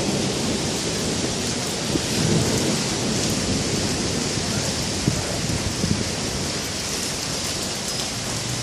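Steady rain falling during a thunderstorm, with thunder rumbling low underneath.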